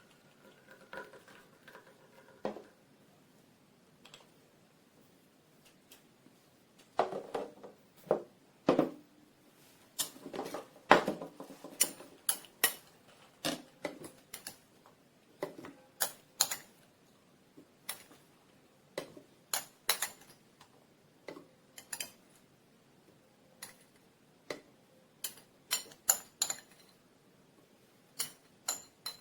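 Hard juicer parts being handled and set down on a surface: scattered clicks, knocks and light clinks, sparse at first, coming thick and fast from about seven seconds in, then thinning to single sharp clicks a second or so apart.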